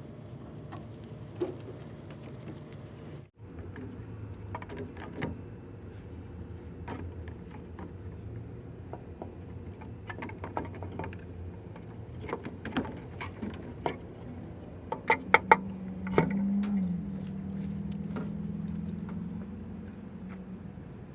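Scattered sharp clicks and knocks over a steady low hum. About 16 seconds in, a louder steady hum at one pitch comes in and keeps going.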